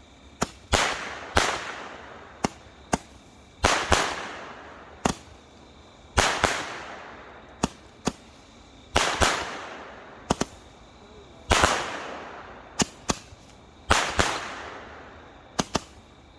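Megabanger 10 ball Blue Thunder firework cakes firing aerial shells that burst with loud bangs. Short, sharp pops alternate with louder bangs that trail off in a long echo, about every second or two.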